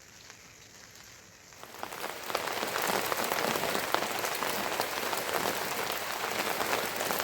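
Heavy rain falling, a dense steady hiss of countless small drop hits that comes in suddenly about two seconds in after a quieter start.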